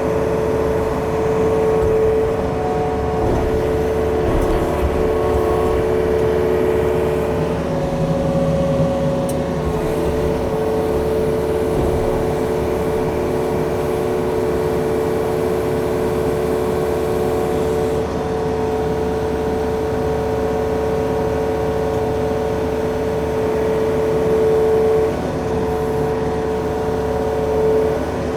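Yanmar machine's diesel engine running steadily with a constant whine, its note shifting slightly now and then as the machine works.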